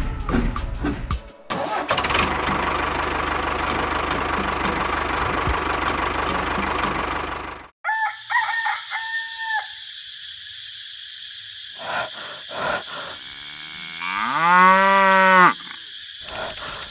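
A steady mechanical rumble with a low hum, like a running engine, that stops abruptly about eight seconds in. Short farm-animal calls follow, then one long low moo of a cow that rises in pitch and holds.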